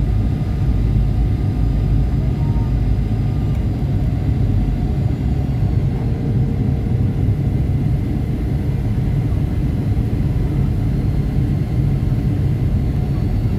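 Airliner cabin noise: a steady low rumble of engines and airflow, with no change in level.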